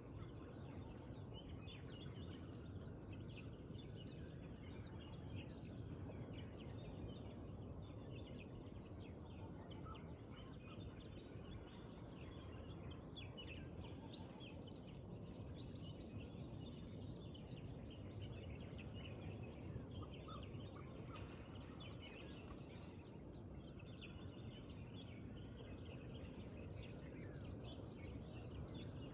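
Faint forest ambience: scattered short bird chirps over a steady high-pitched whine and a low, even background rumble.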